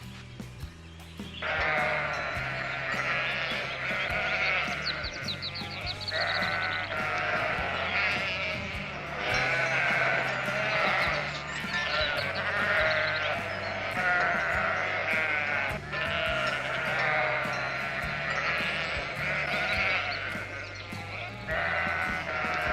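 Goats bleating over and over, starting about a second and a half in, over background music with a low bass line.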